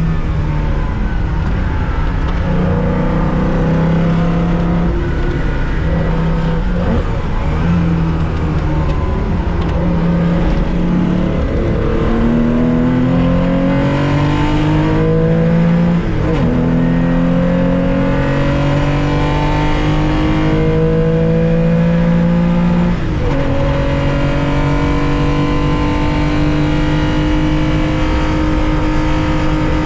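Air-cooled flat-six of a 1965 Porsche 911 2.0 heard from inside the racing car. It runs at varying revs for the first ten seconds or so, then pulls hard through the gears: the pitch climbs steadily, drops sharply at two upshifts about seven seconds apart, and climbs again.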